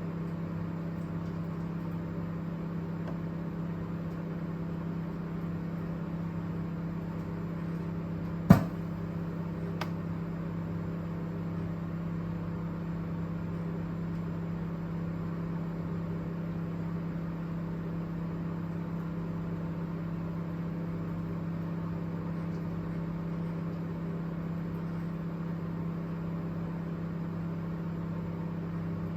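Microwave oven running with a steady hum. About eight seconds in comes a single sharp, loud pop, the abnormal noise that the oven makes only some of the time.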